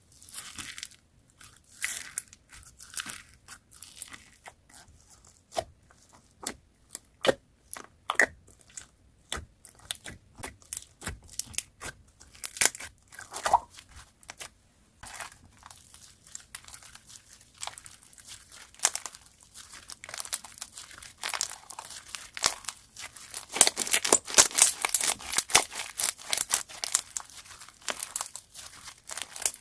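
Slime being squeezed, stretched and pressed by hand, giving sharp crunchy crackles and clicks. The crackling grows denser and louder near the end.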